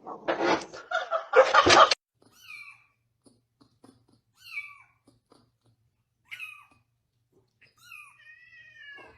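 A cat meowing: a few short, high meows that fall in pitch, spaced a couple of seconds apart, then a longer meow near the end. A loud, noisy, unpitched sound fills the first two seconds.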